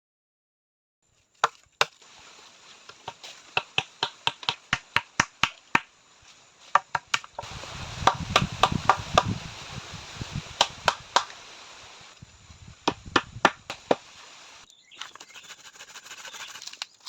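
Wood being chopped with a blade: sharp blows in quick runs of about three or four a second, with short pauses between runs.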